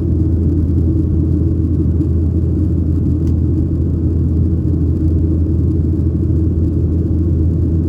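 Steady low rumble inside the cabin of a Boeing 737-800, its CFM56-7B engines running.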